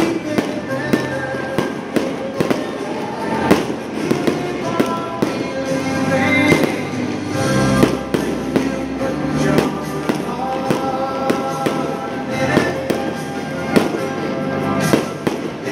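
Aerial fireworks shells bursting in an irregular string of sharp bangs and crackles, a few louder than the rest, over music playing.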